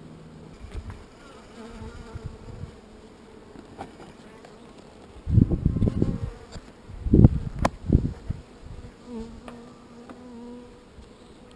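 Bees buzzing in flight close by: a hum that comes and goes. About five and seven seconds in, two bouts of louder, muffled low thumps.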